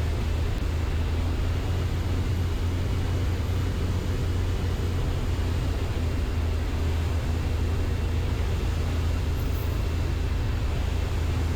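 Light aircraft's engine and propeller heard from inside the cabin as a steady low drone, with no change in power.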